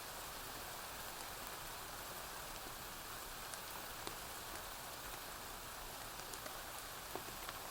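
Steady rain falling on a surface, an even hiss, with a few brief sharp clicks scattered through it.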